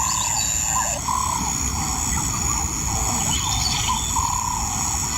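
African bush ambience: a steady, high insect drone, with a bird repeating short rising-and-falling whistled notes about once a second.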